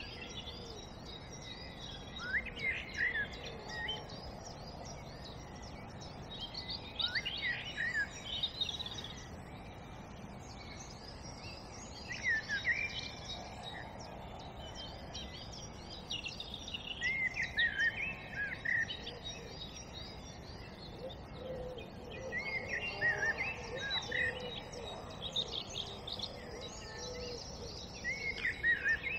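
Wild birds singing: a short, falling song phrase comes back about every five seconds, with fainter song from other birds between, over a steady background hiss.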